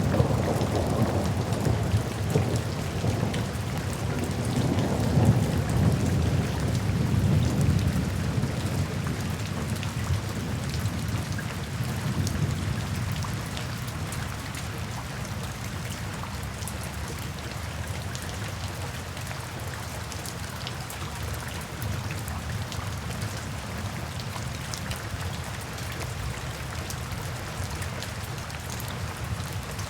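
Steady rain falling in a forest, with scattered drop ticks. A low rolling thunder rumble fills the first several seconds and fades away by about halfway through.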